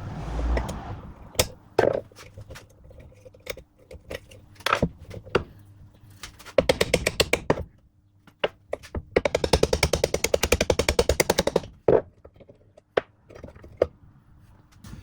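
Workshop tool noise on a drive shaft being stripped: scattered sharp metal knocks and clanks, and twice a run of rapid, evenly spaced clicking, the first about a second long and the second nearly three seconds long.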